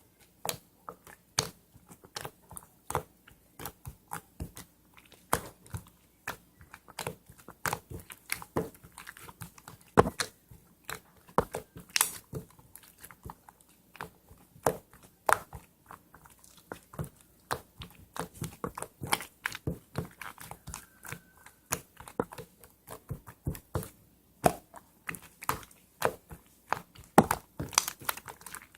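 An irregular, close-up run of sharp crunches and clicks, several a second, typical of biting and chewing something crunchy.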